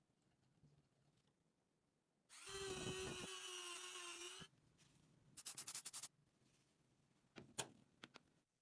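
A small power drill or electric screwdriver runs for a little over two seconds with a steady whine. About a second after it stops comes a quick run of about seven clicks, then a couple of light knocks.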